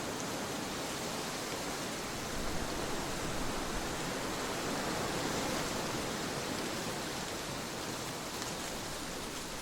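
Steady trade wind blowing, a continuous rushing noise that swells a little partway through and eases again.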